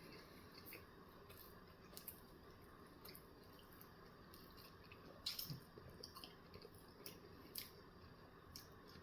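Faint chewing of a breakfast bagel sandwich, with scattered short wet mouth clicks and smacks; the loudest comes a little past halfway.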